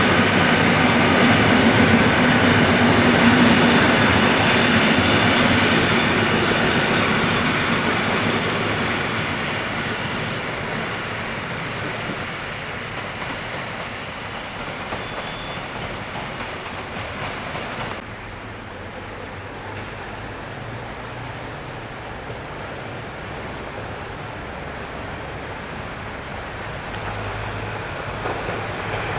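Train running past on the track, loudest in the first few seconds and then fading away. The sound drops off sharply about eighteen seconds in and builds again near the end.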